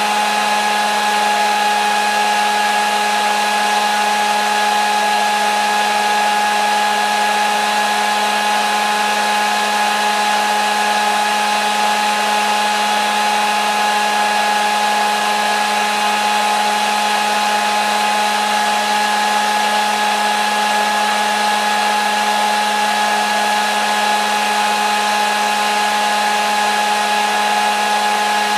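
Hair dryer running continuously with a steady whirring hum and rushing air, unchanging in pitch and level.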